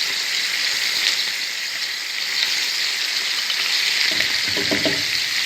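Chicken pieces, onion and spices frying in hot olive oil in a tagine, giving a steady sizzle.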